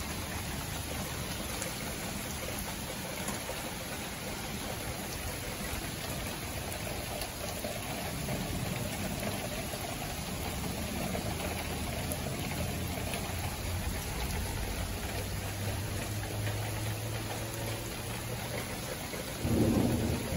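Steady rain falling during a thunderstorm, with low thunder rumbling from about eight seconds in. A brief, louder thump comes near the end.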